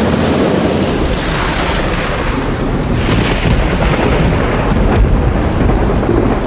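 Thunderstorm: steady rain with thunder rumbling. The thunder swells about one second in and again about three seconds in.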